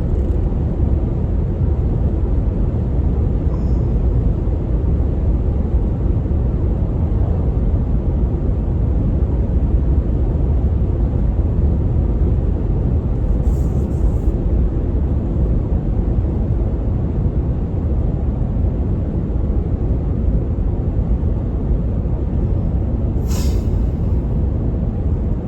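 Truck driving on the road: a steady low rumble of engine and tyres, with two brief higher hissing sounds, one about halfway through and one near the end.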